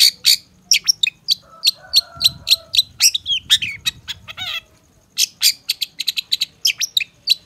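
Long-tailed shrike (cendet) calling in a rapid run of short, sharp, high chips, about five a second, with a short break about five seconds in.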